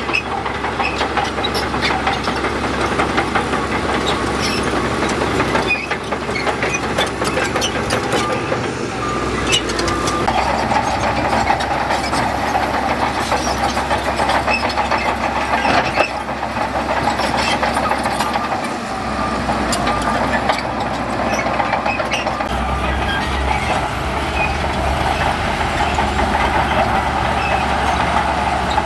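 Heavy earthmoving machinery working: a diesel engine running with a dense, rapid clanking of metal. A louder, higher drone joins about ten seconds in.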